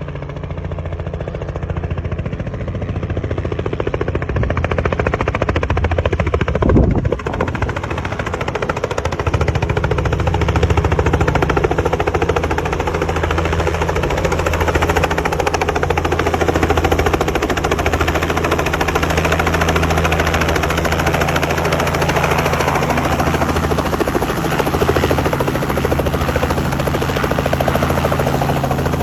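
Helicopter in flight, its rotor chopping fast and steady over the engine's drone. A brief loud thump about seven seconds in.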